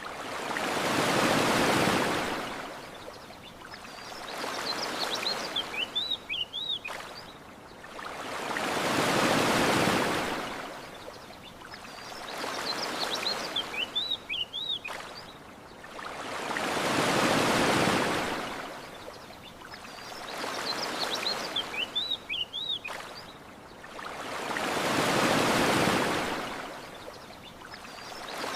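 Ocean waves washing onto a shore, a big swell about every eight seconds with a smaller one between. Short chirping bird calls come in brief clusters in the lulls between the big waves.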